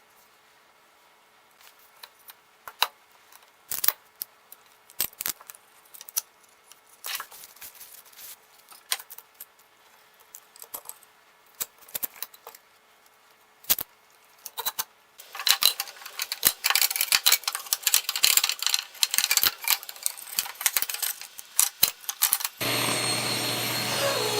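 Small wooden pieces handled and set down in a workshop, with scattered sharp clicks and taps. About fifteen seconds in comes a dense stretch of scraping and crackling on wood, and near the end a power tool starts abruptly and runs steadily with a low hum.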